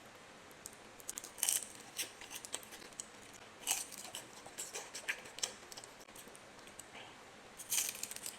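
Close-up crunching of crisp food being bitten and chewed, in short bursts: about a second in, near the middle and near the end.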